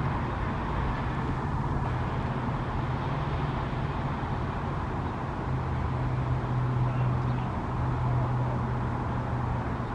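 A steady low engine hum over constant background noise, like a vehicle running nearby.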